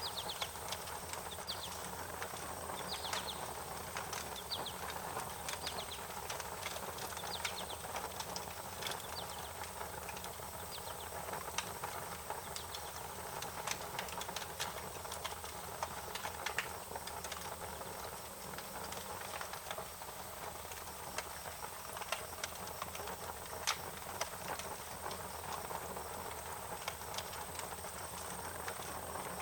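Wood fire crackling and popping, with irregular sharp snaps over a steady hiss. Short high chirps repeat about once a second in the first third, then stop.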